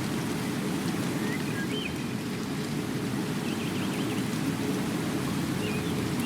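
Steady rain, an even rushing hiss, with a few faint high chirps over it.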